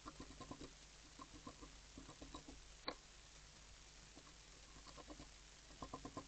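Small birds pecking at seed on a feeder: faint bursts of quick soft taps, with one sharper click about three seconds in.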